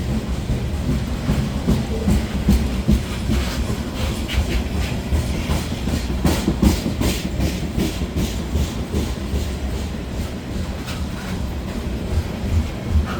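Grain hopper cars of a long freight train rolling slowly past, their steel wheels clicking and clanking over the rail joints with a steady low rumble.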